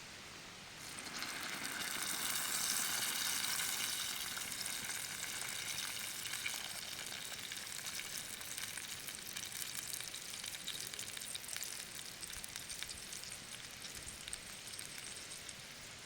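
Food frying in hot fat, sizzling with a fine crackle. It starts about a second in, is loudest a few seconds later, then slowly dies down.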